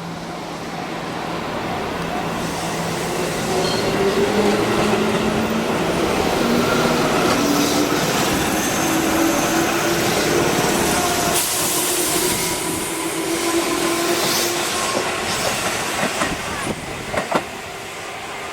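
Tobu Noda Line electric commuter train running on the rails: wheel and rail noise with a pitched motor whine. It grows louder over the first few seconds, holds, then eases off, with two sharp clacks near the end.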